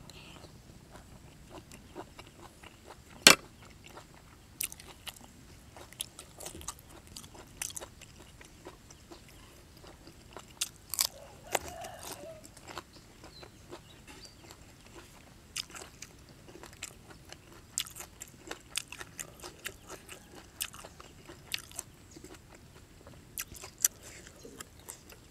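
Close-up mouth sounds of chewing a mouthful of fresh leafy herbs and raw beef: wet chewing with many sharp, irregular crunches, the loudest about three seconds in.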